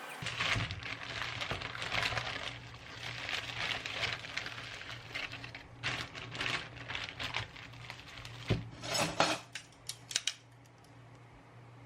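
Household clatter: a run of small knocks, clinks and rustles of objects being handled, with a few sharper clacks near the end, over a steady low hum.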